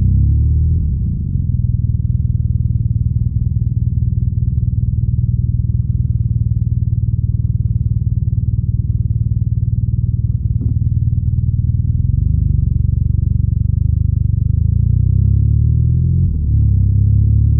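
BMW R nineT's boxer twin engine and exhaust under way on the road. The engine note changes pitch near the start, holds a steady cruise through the middle, and dips briefly before rising again near the end, as with a gear change. A single sharp click sounds a little past halfway.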